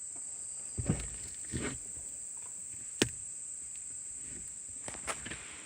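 Crickets trilling steadily and high, with a few dull knocks and one sharp click from handling around the truck.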